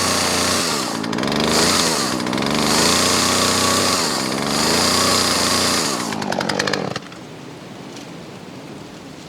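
Two-stroke chainsaw running at high revs, its pitch dipping and recovering a few times as under load. Near the end it drops to a fast, uneven putter and cuts off abruptly about seven seconds in, leaving a faint steady hiss.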